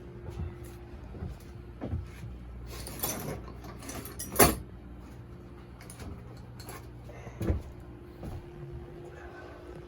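Irregular knocks, clanks and rattles from hands-on work while the old diesel engine is being unhooked and hoisted. The loudest knock comes about four and a half seconds in and another about seven and a half seconds in, over a steady low hum.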